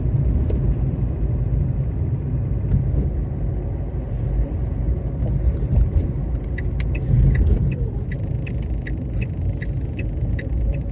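Low, steady road and engine rumble inside a moving car. About two-thirds of the way in, a light, regular ticking starts at about two ticks a second.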